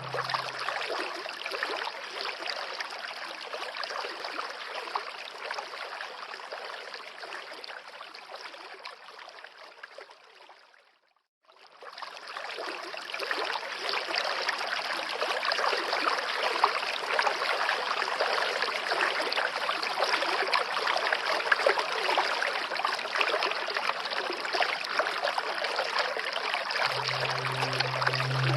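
Flowing stream water, a steady rushing trickle. It fades out to silence about eleven seconds in and fades back up about a second later.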